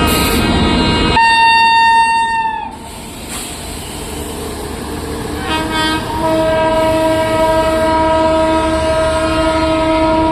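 Train horn sounding twice: a blast of about a second and a half that sags in pitch as it dies away, then a longer steady blast from about halfway through. Low rumble of the train comes before the first blast.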